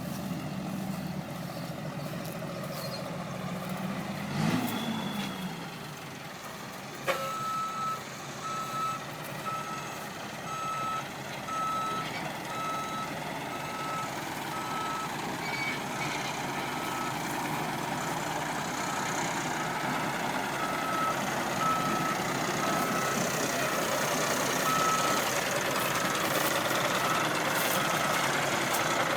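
Dump truck's backup alarm beeping evenly, about once a second, starting about seven seconds in after a sharp click, over the truck's engine running.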